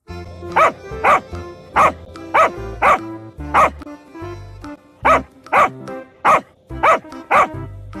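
A dog barking repeatedly, about a dozen sharp barks in two runs with a short pause near the middle, over light background music.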